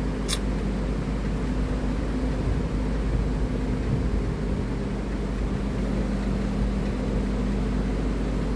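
A steady low hum with a few faint steady tones in it, and one brief sharp click just after the start.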